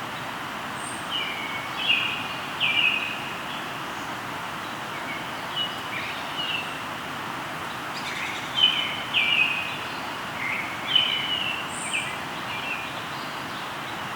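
Steady rush of a flowing river, with birds calling in short bursts of quick chirping notes over it, busiest a couple of seconds in and again in the second half, plus two brief high-pitched notes.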